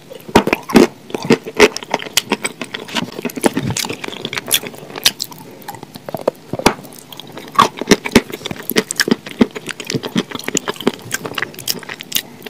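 A person biting and chewing fried chicken dipped in a thick sauce: a rapid, irregular run of sharp clicks and wet, squishy smacks of mouth and food.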